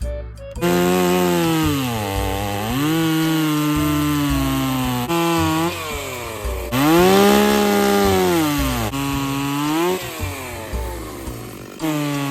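Two-stroke chainsaw cutting wood, starting suddenly about half a second in: the engine's pitch sags each time the chain bites into the cut and climbs back as it frees up, several times over.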